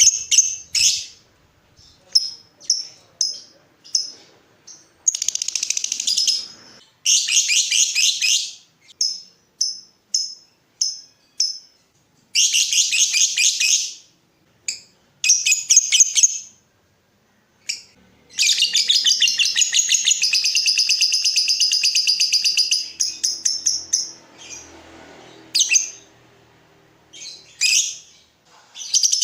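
Lovebird calling: a string of short, high chirps about two a second, broken by rapid chattering trills lasting one to two seconds, and one long trill of about five seconds past the middle.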